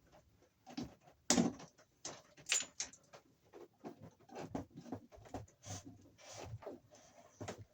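Hands working copper wires and tools in an electrical junction box: irregular clicks, taps and rustles, with two sharper clicks a little over a second in and about two and a half seconds in.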